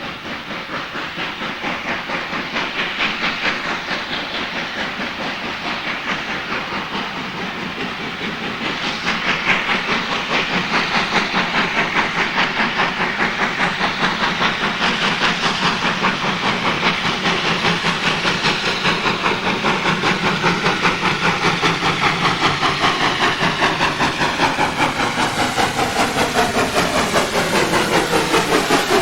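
Steam locomotive working a train, its exhaust beating rapidly and evenly over a hiss of steam and growing louder as it approaches. Over the last several seconds a layered sound slides down in pitch.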